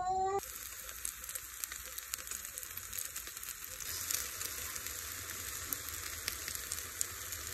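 Zucchini fritter frying in butter in a pan: a steady sizzling hiss full of small crackles and pops. It starts suddenly about half a second in.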